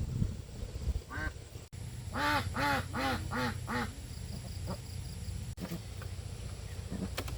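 An animal calling: one short call about a second in, then a quick run of five calls.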